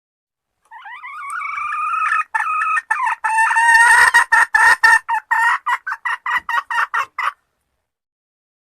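Female jungle fowl hen call, a lure call for attracting males: one drawn-out note that swells for about a second and a half, then a quick run of short notes that speeds up and stops abruptly.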